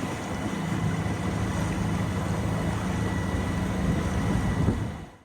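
Steady noise of a boat under way, with a low hum beneath the rush, fading out near the end.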